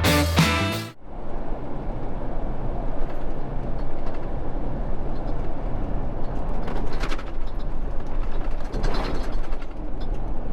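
Inside a moving semi truck's cab: steady engine and road drone with a fast, dense rattling. A burst of music cuts off about a second in.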